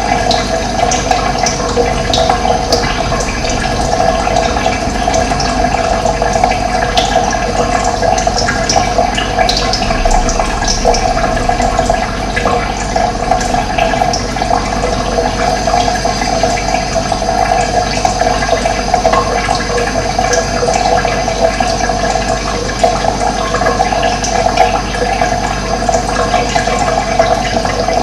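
Running water flowing steadily in a loud, even rush, with short high bird chirps now and then.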